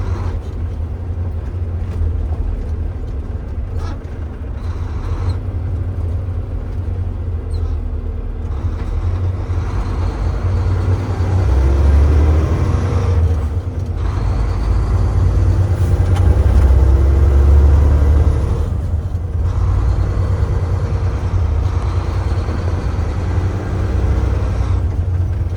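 Tractor-trailer's diesel engine heard from inside the cab as a steady low drone. It climbs in pitch twice, about ten and fifteen seconds in, each time dropping back briefly as the truck shifts up a gear.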